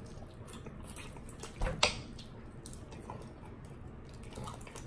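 People eating fried chicken wings: quiet chewing and small wet mouth clicks, with one sharper, louder sound just under two seconds in.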